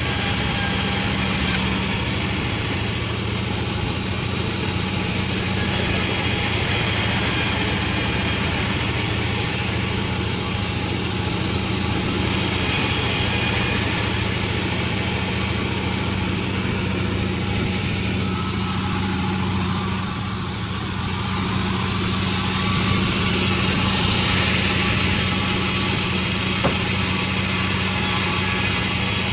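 A Panda36 sawmill running steadily while sawing bayur wood: a constant engine hum under the dense hiss of the saw, which swells and eases every few seconds. The sound dips briefly about twenty seconds in.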